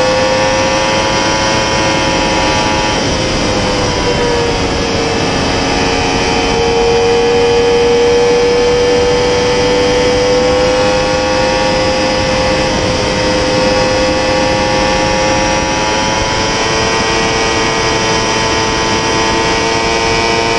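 2020 Yamaha R1's crossplane inline-four running hard at high revs in fifth gear at about 260 to 300 km/h, its note holding high and dipping slightly about four seconds in, under steady wind rush.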